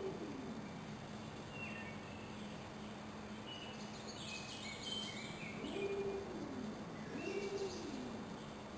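Wild birds calling in woodland: quick high chirps in a few short runs, and low drawn-out cooing notes that rise, hold and fall, three times, over a steady low hum.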